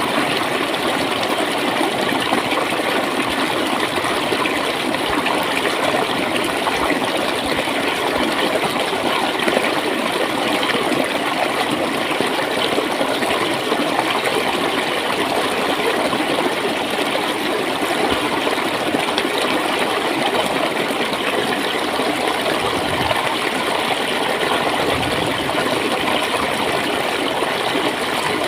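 Water flowing and gurgling steadily, a constant rushing with fine splashing texture and no breaks.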